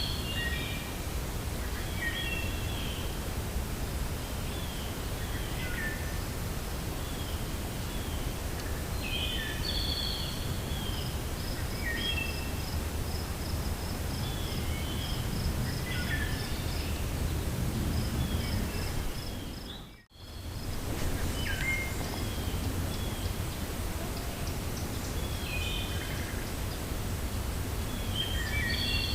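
Wind blowing steadily with a low rumble while birds chirp in short repeated calls. A fast, even trill of high ticking notes runs through the middle, and about 20 seconds in the whole sound fades out for a moment and comes straight back, like a loop joint.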